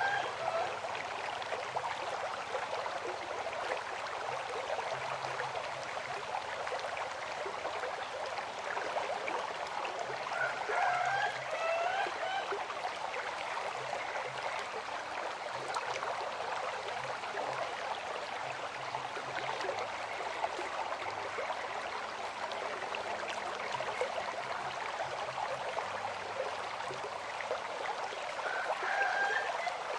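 River water flowing in a steady, even rush, with a few short higher-pitched sounds over it about a third of the way in and again near the end.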